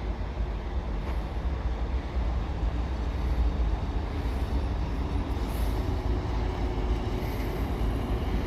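Railway train running, a steady low rumble with an even rolling noise above it.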